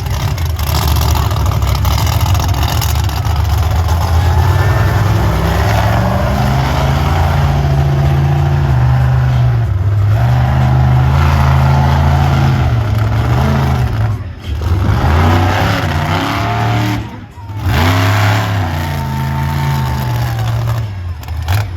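Methanol-fuelled monster truck engine revving hard under heavy throttle. Its pitch climbs and falls as the driver works the throttle. The engine drops off sharply twice in the last third, then revs back up in quick rising and falling blips.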